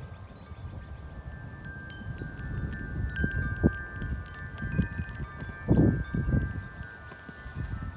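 Wind chimes ringing in a gusty wind, struck over and over, with wind buffeting the microphone in gusts that are loudest about three and six seconds in.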